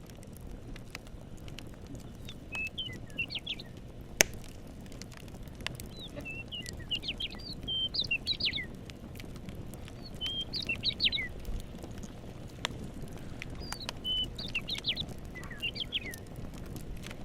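A songbird singing in short, quick chirping phrases repeated every few seconds, over the crackle of a campfire with scattered sharp pops, one loud pop about four seconds in.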